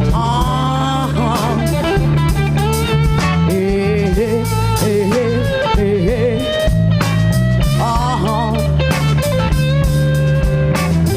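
Live rock band playing: an electric guitar lead with bent, wavering notes over electric bass and a drum kit.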